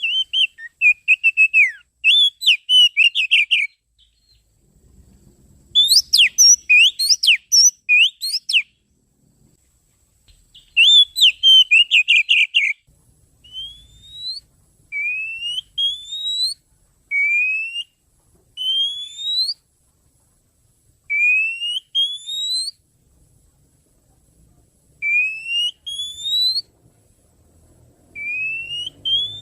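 Oriental magpie-robin (kacer) song played as a lure call. It opens with three bursts of fast, varied chattering phrases, then moves into a run of single rising whistles, often in pairs, about every one to two seconds.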